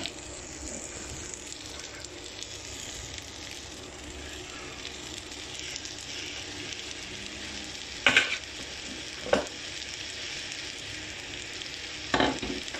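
Spaghetti and masala sizzling steadily in a non-stick karahi as it cooks. A spatula scrapes against the pan three times, twice about two-thirds of the way in and once near the end.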